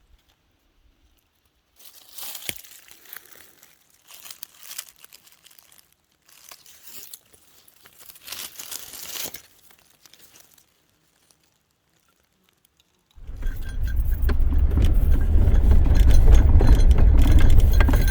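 Intermittent rustling and crinkling of things being handled. About thirteen seconds in, a loud, steady, low rumble of a car in motion starts suddenly.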